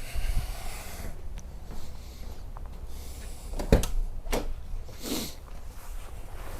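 Two sharp clicks or knocks about a second apart, over a low rumble, with no engine cranking: a start attempt on a Fox-body Mustang whose battery is dead after winter storage.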